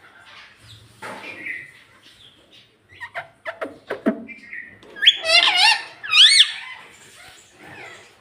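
Rose-ringed (Indian ringneck) parakeet chattering, with short squeaks and falling calls. About five seconds in it breaks into a loud run of warbling, wavering squawks.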